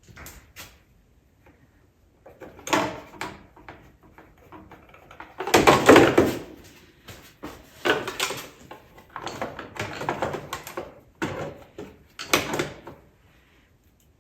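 Irregular knocks, rattles and scrapes of parts being handled and fitted on an ATV during reassembly. The loudest clatter comes about six seconds in.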